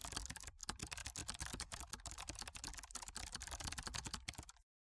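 Computer keyboard typing: a quick, steady run of key clicks that stops shortly before the end.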